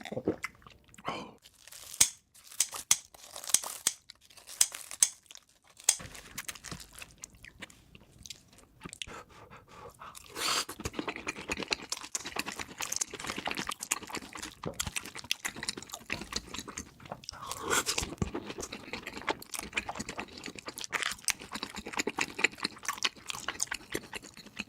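Close-miked mukbang eating sounds, sped up to double speed: sharp crunching bites at first, then about ten seconds in a continuous run of wet chewing.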